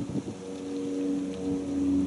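An engine running steadily, a constant hum.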